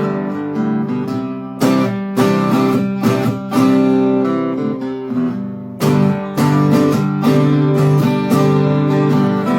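Acoustic guitars strumming chords in an instrumental passage of a country-folk song, with no singing.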